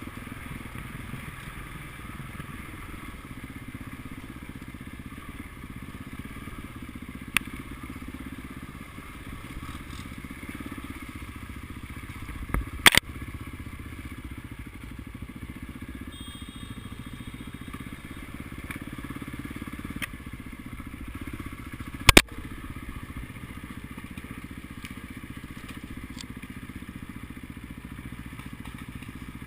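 Motocross motorcycle engines running as a steady drone, broken by a few sharp knocks; the two loudest come about midway and about three-quarters of the way through.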